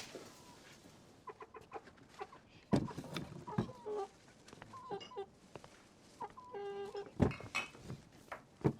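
Chickens clucking in short, scattered calls, with a couple of dull thumps about three and seven seconds in.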